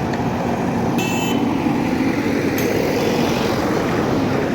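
Bus engine running with steady road and vehicle noise, with a couple of brief metallic clinks or rattles.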